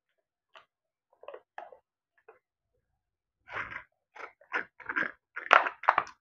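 Mouth sounds of a person eating, picked up close on a clip-on microphone: faint chewing at first, then a run of louder, short, irregular chewing sounds from about halfway through.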